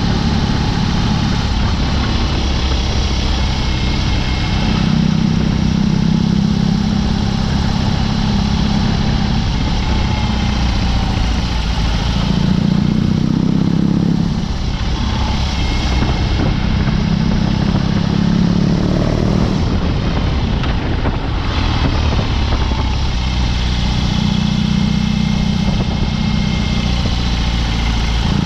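BMW R18's big boxer twin running through a Dr. Jekill & Mr. Hyde exhaust under way, its note swelling and easing several times as the throttle opens and closes.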